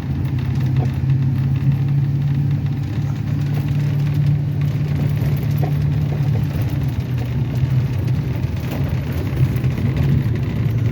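Plow truck's engine running at a steady low hum.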